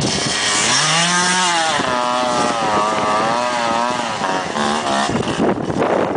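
Quad (ATV) engine revving hard, its pitch rising and falling and then wavering as the throttle works. Near the end the pitch gives way to a rougher rushing noise.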